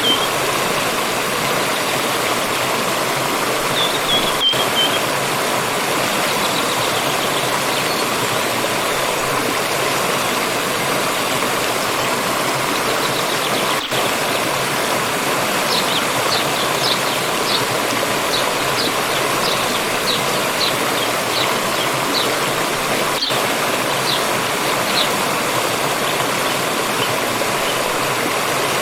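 Steady rushing of a flowing forest stream, with birds calling over it: a short falling call about four seconds in, and a run of quick high chirps, one or two a second, through the second half.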